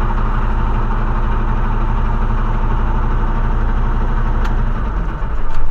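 Heavy truck's diesel engine idling steadily. Near the end the sound swells louder for a moment, with a couple of sharp clicks.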